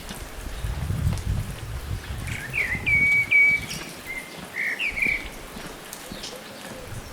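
A small bird calling: a short run of sharp whistled notes starting about two and a half seconds in and lasting about two seconds, over a low wind rumble.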